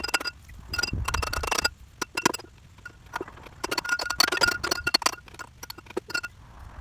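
Hand tools clinking and scraping against metal parts: irregular sharp clinks in clusters, some with a slight metallic ring.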